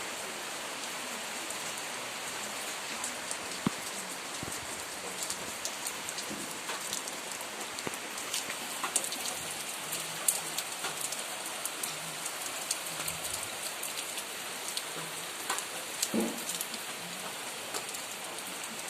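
Rain falling on surfaces: a steady hiss with many separate drops ticking and splashing through it.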